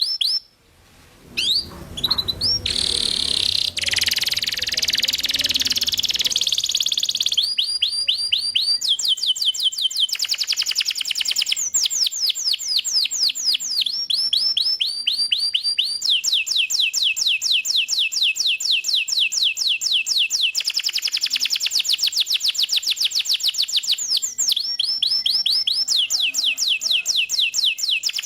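Domestic canary singing in full, continuous song: fast trills of rapidly repeated high notes, switching to a new repeated phrase every couple of seconds, after a brief pause about a second in.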